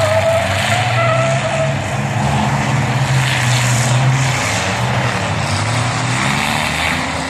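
Engines of demolition-derby pickup trucks revving and labouring, with tyres skidding, and a high whine through the first couple of seconds.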